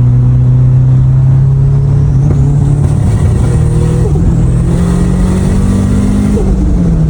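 Turbocharged K24 four-cylinder engine in a BMW E36 running loud under steady load, its pitch climbing about two-thirds through and then dropping back near the end.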